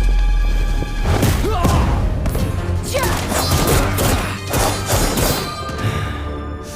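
Animated fight sound effects: a run of sharp hits and clashes, several close together between about one and five seconds in, over loud background music.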